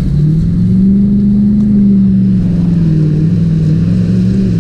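Car engine running hard as it drives through a shallow river, its pitch climbing about a second in and then easing slowly, over a low rumble of churned water.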